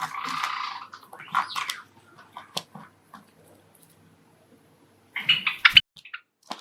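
Pet Java sparrows moving about: a short rustle at the start and scattered taps, then a quick run of short, sharp chirps about five seconds in.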